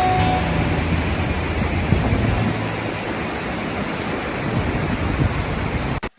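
Steady rush of a large waterfall, Låtefossen's twin streams crashing down close by. The sound cuts out briefly near the end.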